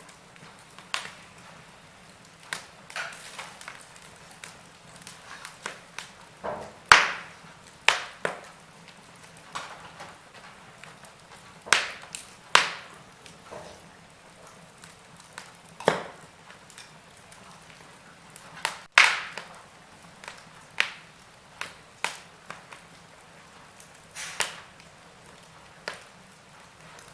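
Wood fire burning in a fireplace: irregular crackles and sharp pops from the burning logs over a low steady hiss, with the loudest pops about seven seconds in and again about nineteen seconds in.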